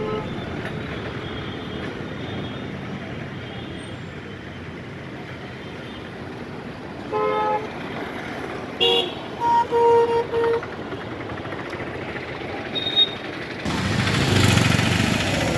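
Road traffic with a steady running hum, broken about halfway through by several short vehicle horn toots, including three quick beeps in a row. Near the end a vehicle passes close and the noise swells.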